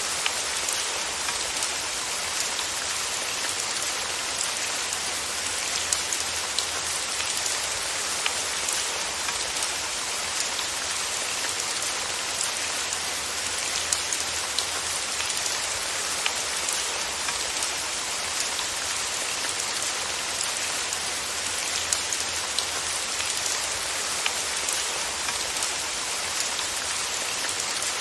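Steady rain falling on a surface, an even hiss with the small ticks of individual drops.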